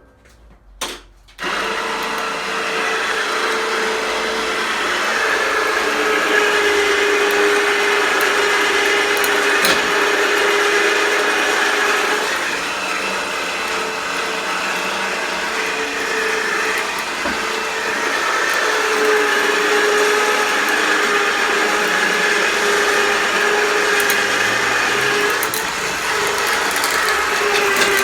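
Harbor Freight 2500 lb electric remote winch motor winching a motorcycle up onto a lift: a brief blip just after the start, then a steady whine from about a second and a half in, its pitch dipping a little in places.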